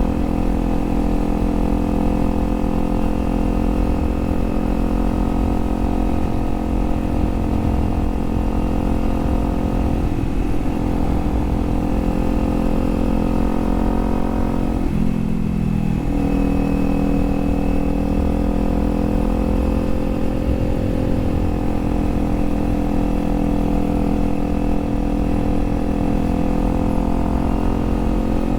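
Kawasaki Z400 parallel-twin engine running at steady cruising revs. The engine note wavers around ten seconds in, dips briefly about fifteen seconds in, then picks up and settles again.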